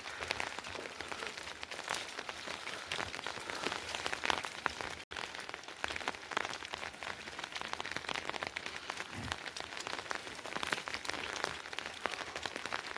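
Steady rain falling, many separate drops heard in a continuous hiss, broken by a momentary gap about five seconds in.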